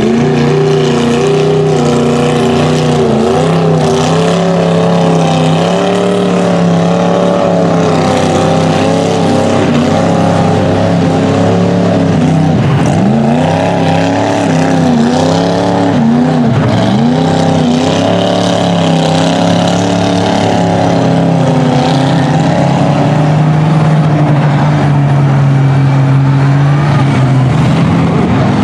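Mud truck engines running loud and revving, the pitch swinging up and down, with two sharp drops in revs that climb straight back about halfway through.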